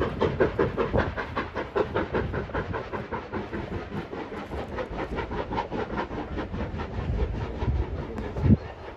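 Train running with a fast, even rhythmic clatter of about five beats a second, and one louder low thump near the end.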